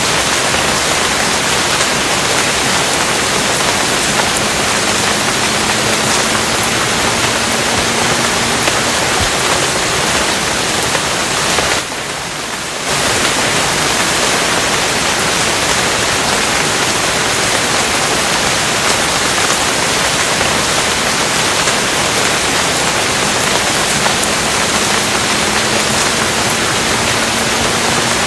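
Steady, dense rain hiss. It drops in level briefly for about a second near the middle.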